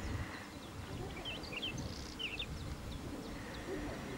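A small bird chirping in a few quick clusters of short high notes, over a steady low rumble.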